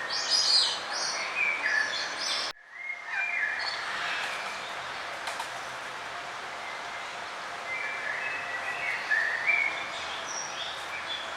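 Songbirds chirping and singing in short phrases over a steady background hiss, with a brief dropout about two and a half seconds in where the recording cuts.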